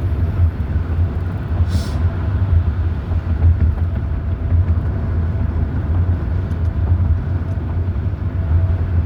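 Steady low rumble of a moving vehicle, with a brief click about two seconds in.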